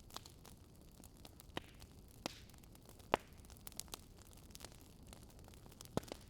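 Wood campfire crackling: irregular sharp pops and snaps over a soft steady hiss, the loudest pop about three seconds in.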